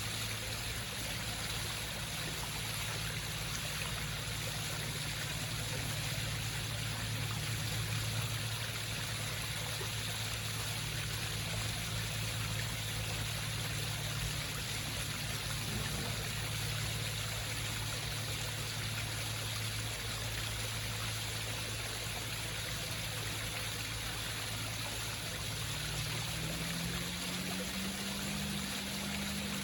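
Water from a home waterfall trickling and splashing steadily over rocks, with a low steady hum underneath. The hum shifts up in pitch near the end.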